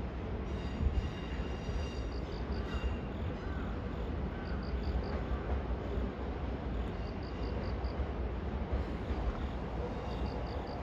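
Four-car E217 series electric multiple unit approaching slowly round a curve: a steady low rumble of wheels on rail, with a brief faint wheel squeal about three seconds in.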